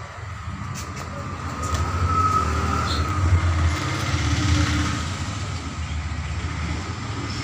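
Motor vehicle engine rumble from road traffic, swelling about two seconds in and easing off after about five seconds.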